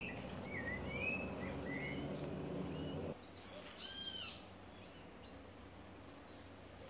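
Birds calling: short chirps that rise and fall, then a few higher arched calls about four seconds in. Under the first three seconds runs a low rumble that stops abruptly.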